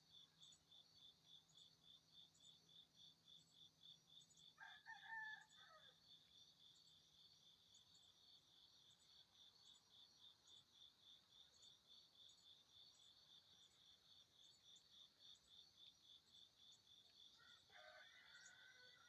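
Insects chirping in a fast, even pulse of several beats a second, with a bird crowing twice over it: once about five seconds in, the loudest sound, and again near the end.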